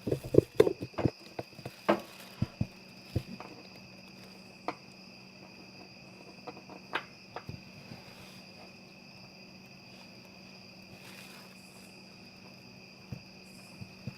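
A string of light clicks and knocks, as of small objects being handled, bunched in the first few seconds and then only the odd tick, over a faint steady high-pitched tone.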